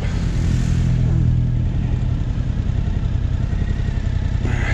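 BMW R1200GS Rallye's boxer-twin engine running under way, a steady low drone that is heavier for the first couple of seconds and then evens out.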